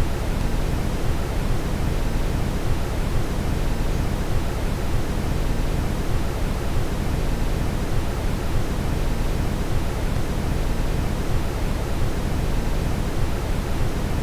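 Steady brown noise: an even, unchanging hiss weighted heavily toward the bass.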